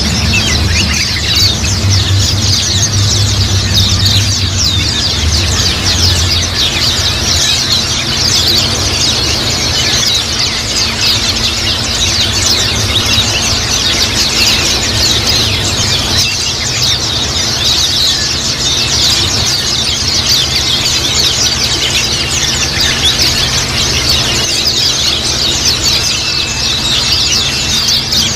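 A flock of white-eyes (pleci) chattering together: a dense, unbroken mass of high, thin chirps, over a low steady hum.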